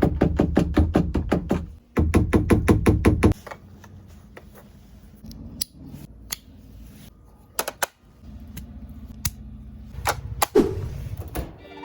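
A fast, even run of knocks for about three seconds, then scattered clicks and taps of plastic parts, as a vacuum cleaner is emptied and cleaned.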